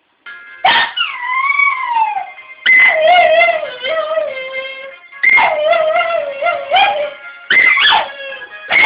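A dog howls along with a phone ringtone tune. There are four drawn-out howls, each starting high and sliding down in pitch, with a fifth beginning near the end.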